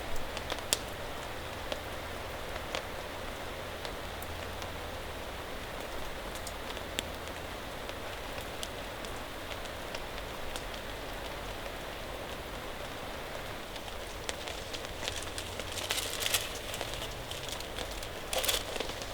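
Steady rain falling, with scattered single drops tapping sharply. Near the end, a run of crinkling, rustling clicks joins in.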